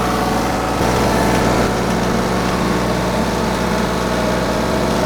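TYM 2515H compact tractor's diesel engine running steadily, slightly louder for about a second early in the stretch.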